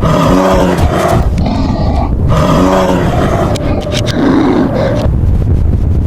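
A large animal's loud roaring calls, two of them about a second long each, near the start and about two seconds in, over a steady low rumble.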